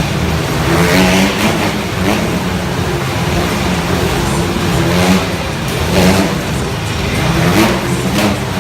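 Motorbikes circling inside a steel-mesh globe of death, their engines revving up and down over and over with no pause.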